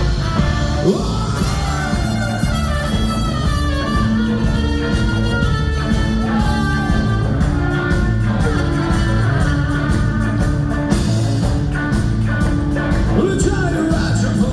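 Ska-punk band playing live: singing and shouted vocals over a steady drum beat and band, echoing in a large hall.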